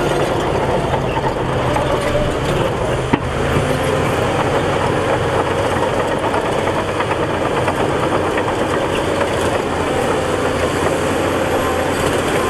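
Heavy diesel earthmoving machinery running steadily under work, with a low engine drone and a broad mechanical rumble. One short sharp click about three seconds in.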